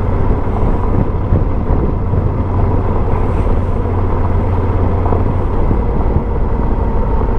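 Motorcycle engine running steadily with an even low rumble.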